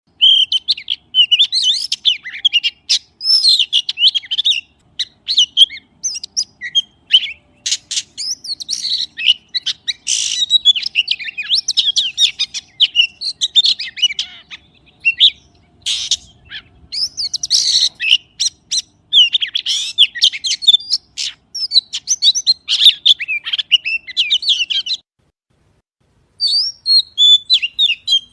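A magpie calls in a rapid, varied run of chirps and whistles with sharp clicks mixed in. It breaks off for about a second and a half near the end, then starts again.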